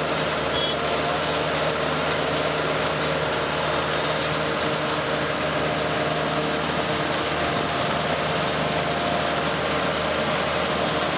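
A steady engine-like drone with a faint constant hum, even throughout, with no rise or fall.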